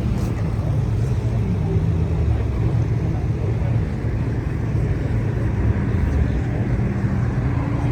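A car engine running steadily with a low, even rumble.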